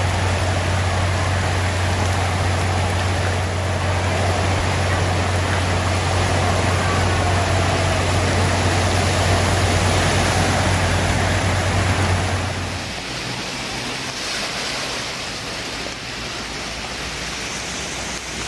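Heavy tropical rain pouring down as a steady loud rush, with a vehicle engine's low hum beneath it. About 13 seconds in, the hum stops suddenly and the rain sound drops a little.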